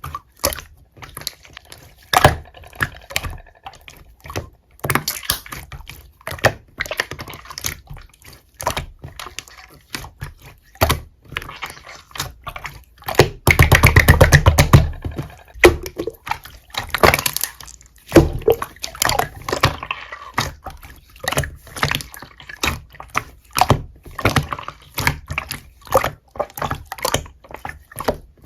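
Slime being squished and pressed by hand: irregular wet clicks and pops of trapped air, with a fast run of crackling pops about halfway through.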